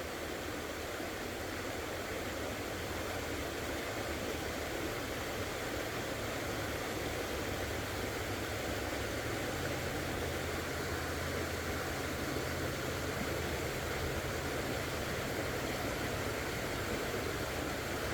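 Steady rushing of creek water, an even hiss, with a low steady hum underneath that grows louder about halfway through.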